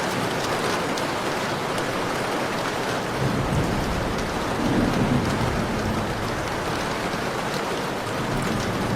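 Heavy rain pouring steadily, with a low rumble of thunder that swells about three seconds in and dies away a few seconds later.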